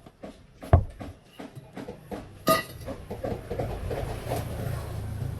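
A heavy thump, then a metallic clank that rings briefly, then an engine runs with a low, uneven rumble that grows louder and holds steady.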